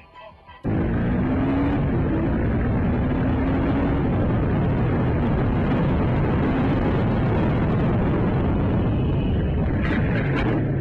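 Loud, steady noise of a car on the road as picked up by a dashcam, with a faint engine note rising slightly; it cuts in suddenly about a second in. A few sharp knocks come near the end.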